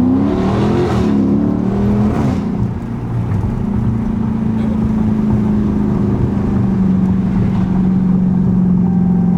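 Dodge Scat Pack's 392 HEMI V8 revving up, its pitch climbing steeply for the first second, wavering and dropping back about two and a half seconds in, then running at a steady, unchanging pitch.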